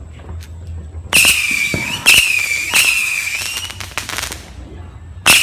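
50-shot firework cake firing. From about a second in it launches a rapid series of shots, each a sharp crack followed by a warbling whistle. There is a brief lull before another shot near the end.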